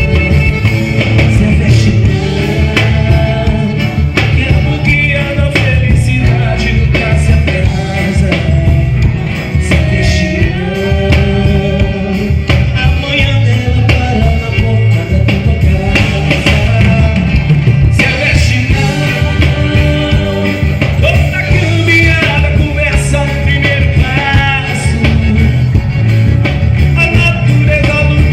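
Forró pé de serra band music playing, with a steady beat.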